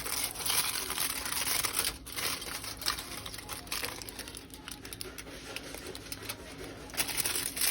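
Dense, irregular crackling and crinkling made up of many quick clicks, easing off somewhat partway through.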